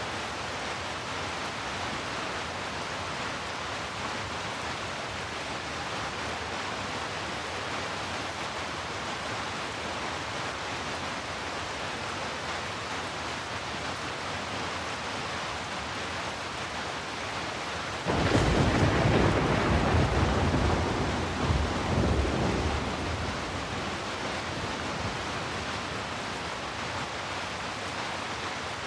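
Steady heavy rain. About two-thirds of the way through, a sudden clap of thunder breaks in and rumbles for about five seconds before fading back into the rain.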